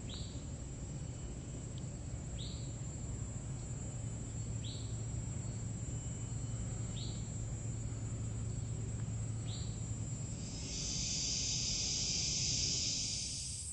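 Jungle ambience: a steady insect drone, with a short high call repeating five times about every two seconds. In the last few seconds a louder, high hissing insect buzz swells in.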